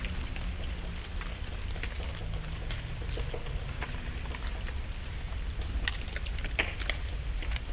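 Dry autumn leaves falling through the branches and landing on leaf litter: an irregular patter of small ticks and taps, like light rain, that thickens near the end, over a steady low rumble.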